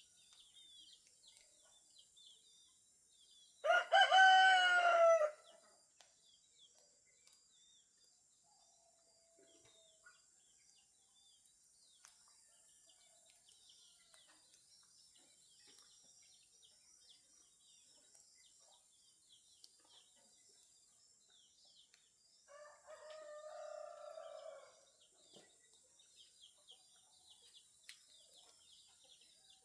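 A rooster crows loudly once about four seconds in, and a second, fainter crow follows near the end. Small birds chirp and twitter throughout.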